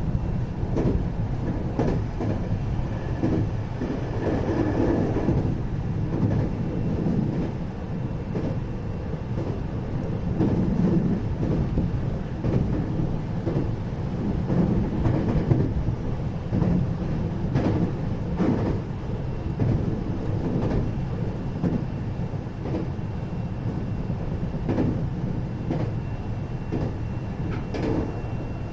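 A 521 series electric train heard from inside motor car KuMoHa 521-30 while it runs between stations: a steady low rumble of wheels on rail and running gear, with frequent short clicks from rail joints. A faint high steady tone joins about two-thirds of the way through.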